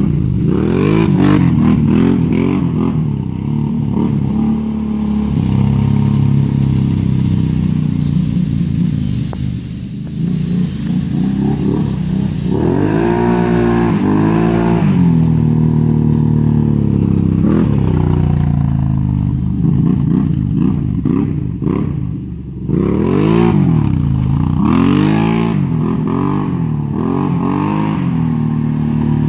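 Can-Am Renegade ATV's V-twin engine running loud through an aftermarket DC Sports straight-through muffler, revving up and falling back over and over. It eases off the throttle briefly about ten seconds in and again a little past twenty seconds.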